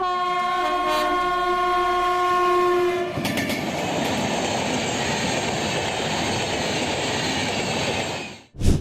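Train horn sounding one steady chord for about three seconds, then the steady noise of the train running past on the rails, which cuts off abruptly near the end.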